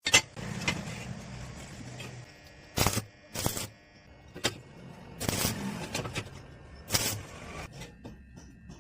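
Several short, sharp knocks, loudest near the start and about seven seconds in, over a low hum that comes and goes.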